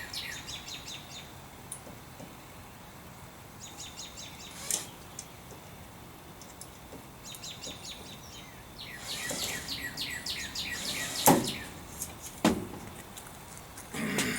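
Songbirds singing repeated short phrases of quick chirps, with three sharp knocks, the loudest near the end.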